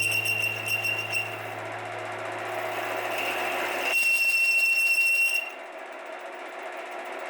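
A small electric power tool running with a high steady whine and a rough noisy bed. It runs loudest twice: at the start and again from about four seconds in to about five and a half seconds, and eases off between and after.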